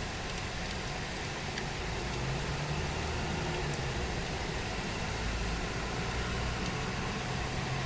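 Steady rain falling, an even hiss. About two seconds in, the low hum of a motor vehicle's engine joins it and carries on.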